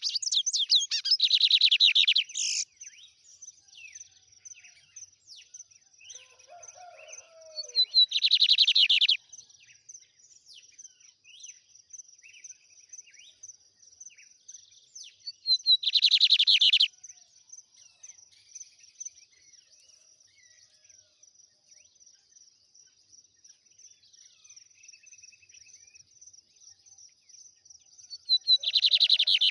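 Lined seedeater (bigodinho) singing in the rapid 'trem bala' song style: four loud bursts of fast trilled song, each one to two seconds long, spaced several seconds apart. A faint steady high chirring carries on between the songs.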